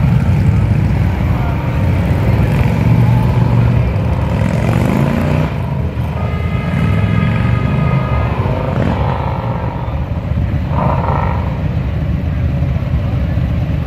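Several parade motorcycles running at low speed, a steady low engine rumble, with a brief steady higher tone for a couple of seconds around the middle.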